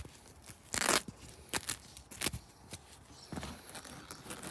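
A fabric seatbelt cover being fastened around a seatbelt strap by hand: several short ripping and rustling noises, the loudest about a second in, then quieter rustling.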